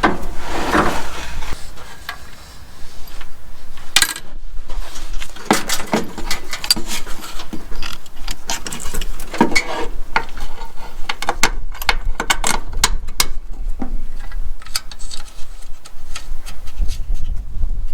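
Metal clinking and rattling: bolts and hand tools being handled and set down, a string of irregular sharp clicks and knocks.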